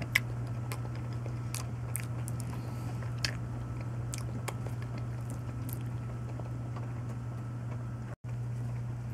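A person chewing soft, starchy banana, with occasional small wet mouth clicks, over a steady low hum. All sound drops out for a moment about eight seconds in.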